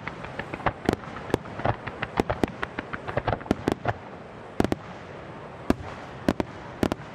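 Fireworks display going off: a rapid string of sharp bangs and crackling pops for about four seconds, then a handful of single louder reports.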